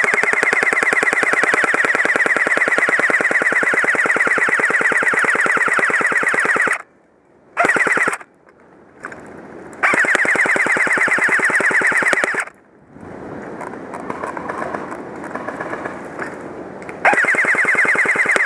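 Airsoft electric rifle (G4-A1) firing on full auto in long bursts of rapid, evenly spaced shots. The first burst lasts about seven seconds, a very short one follows, then one of about two and a half seconds, and a last burst starts near the end.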